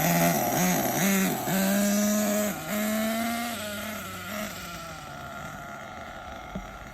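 Hong Nor Force 32 5.2cc nitro engine of an RC truggy, freshly broken in and nearly tuned, revving in three quick throttle blips and then holding high revs for about two seconds before fading out about four seconds in.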